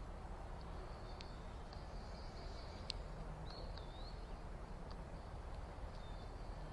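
Small backyard birds giving scattered high chirps and sharp chip notes, one of them a short swooping call about halfway through, over a steady low outdoor rumble.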